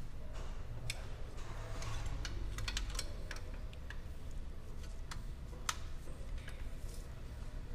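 Irregular light clicks and taps of hand tools being worked on the engine, over a steady low rumble.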